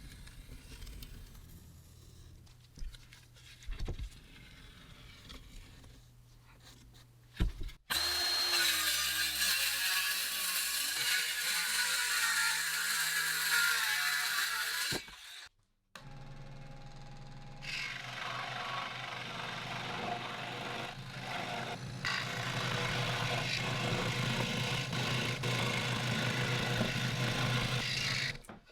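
A power tool running against wood in two long, steady stretches with a short break between them, after a few seconds of lighter knocks.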